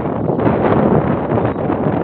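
Wind buffeting the microphone: a loud, steady rushing noise with no bird calls standing out.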